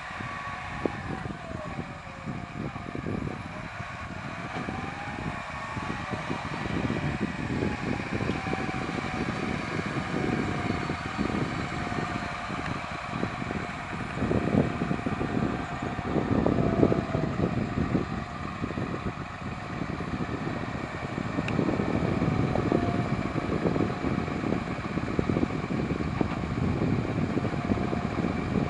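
John Deere 7280R tractor's diesel engine running under load while pulling a large plough, its pitch wavering in the first few seconds and then holding steady.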